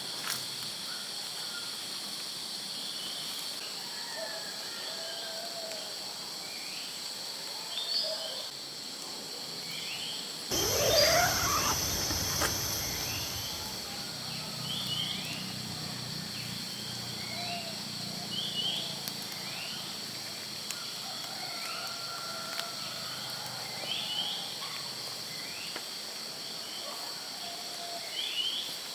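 Forest ambience: a steady, high-pitched insect chorus with short bird chirps repeating every second or two. About ten seconds in, a louder, sudden noisy sound with a rising sweep fades out over a few seconds.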